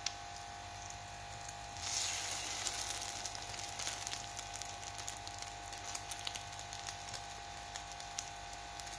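Egg-dipped bread slice frying in butter on a flat griddle (tawa), a steady sizzle with fine crackles that grows louder about two seconds in as the slice is stood on its edge in the hot butter.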